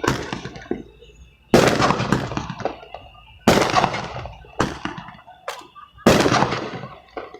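Fireworks going off: a series of about five sharp bangs a second or two apart, each fading away over a second or so.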